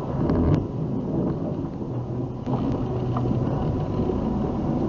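Steady low rumble of a moving car's road and engine noise picked up by a dash camera, with a few faint clicks and no single crash impact.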